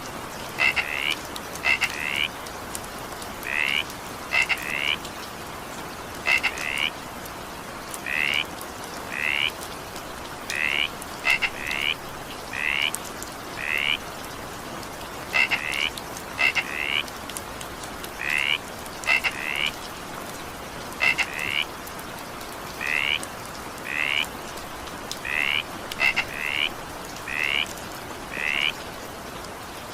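A frog calling over and over in short croaks, often two in quick succession, about one to two calls a second, over the steady hiss of falling rain.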